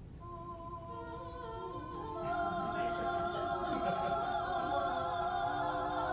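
Several voices singing long held notes together in harmony, operatic style, with vibrato. More voices join in during the first two seconds and it grows louder.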